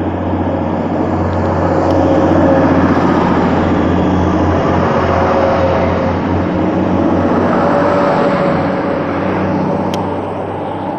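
Class 185 diesel multiple unit pulling away from the platform, its Cummins diesel engines running under power with a steady low drone. The sound builds over the first couple of seconds, then eases slightly near the end.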